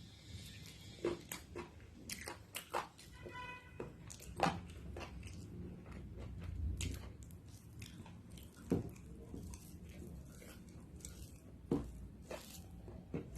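Close-miked eating: chewing and biting with irregular wet smacks and crunches, the sharpest about four and a half and nearly nine seconds in.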